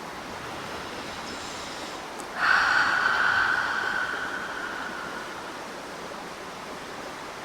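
A person breathing in faintly, then letting out a long audible exhale through the mouth about two and a half seconds in that fades away over about three seconds, over the steady rush of a flowing river.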